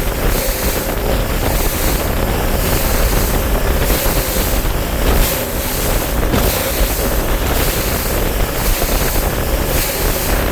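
Bass boat under way: outboard motor running steadily, with wind buffeting the microphone and water noise from the hull.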